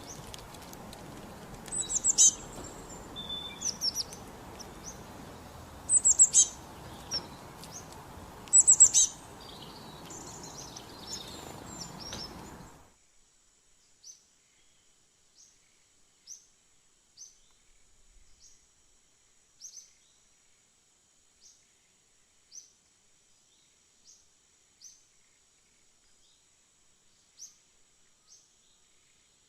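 Birds chirping: loud, sharp high calls in clusters over steady outdoor background noise. About thirteen seconds in the background noise cuts off abruptly, and after that only single short, high chirps come every one to three seconds.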